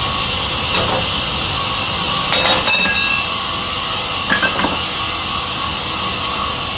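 Sawmill machinery running steadily, with a brief cluster of ringing metallic clinks about two and a half seconds in and another shorter clink about four and a half seconds in.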